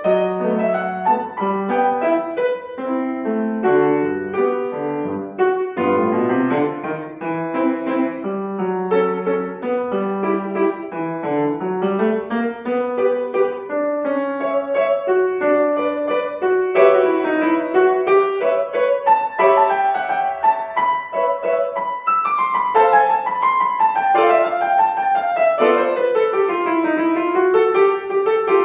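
Solo piano playing a classical piece, with fast flowing runs and arpeggios sweeping up and down.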